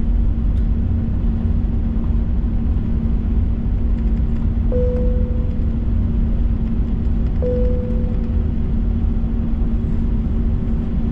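Steady engine and air drone inside an Airbus A321's cabin, with a constant hum. Two single cabin chime tones sound about two and a half seconds apart, each fading out over about a second.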